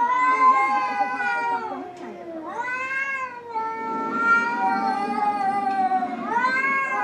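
Domestic cat yowling: four long, drawn-out wavering meows in a row, each sliding down in pitch at its end.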